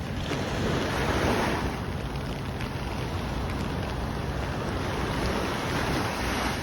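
Ocean surf breaking and washing ashore, swelling twice: once about a second in and again near the end.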